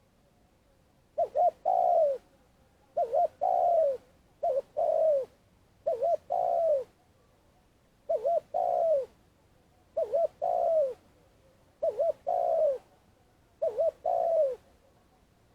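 Spotted dove calling: a run of eight repeated cooing phrases, each two quick low notes followed by a longer note that falls away, starting about a second in.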